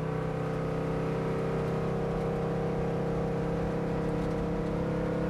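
Race car engine running at a steady, sustained speed: an even drone of several held tones with no change in pitch or loudness.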